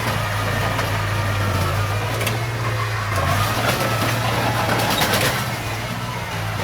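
Heavy diesel machinery running steadily: an engine drone whose pitch shifts briefly about three seconds in, with a few metallic clicks and knocks.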